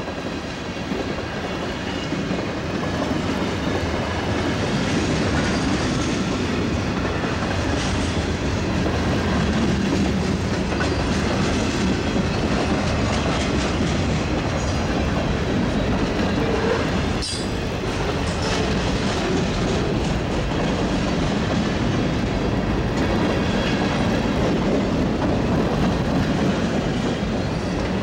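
Freight cars rolling past at close range: a steady rumble of steel wheels on the rails, with clacking over rail joints and faint high-pitched wheel squeal. One sharp knock sounds about two-thirds of the way through.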